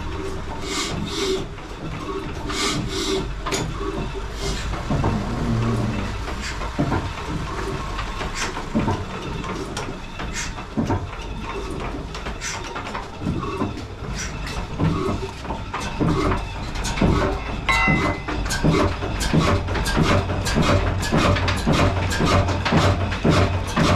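Old black Ruston-type single-cylinder diesel engine running, with a steady low hum under a string of exhaust beats and knocks. The beats grow louder and more regular after about two-thirds of the way through.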